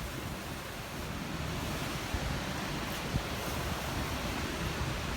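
Strong wind rushing steadily, buffeting the microphone with a low rumble.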